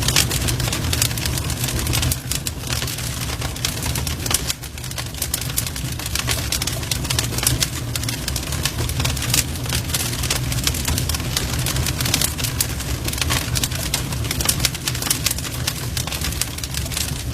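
Wood fire burning, with dense, constant crackles and snaps over a steady low rumble of flame.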